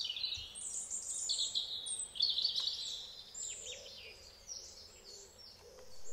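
Small songbirds singing: a busy run of high chirps and quick falling notes that thins out over the last couple of seconds.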